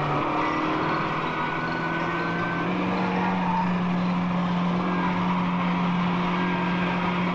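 Fiat 850's rear-mounted four-cylinder engine running steadily under way, over road noise; the engine note steps up in pitch about three seconds in and then holds steady.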